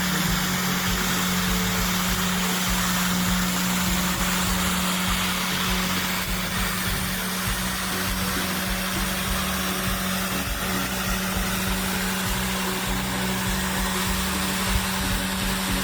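A machine's motor running steadily, with a constant low hum over a broad hiss.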